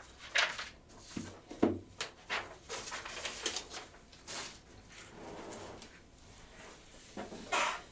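Hands handling boxes of trading cards on a table: a series of short rustles, slides and scrapes with a couple of light knocks about a second and a half in.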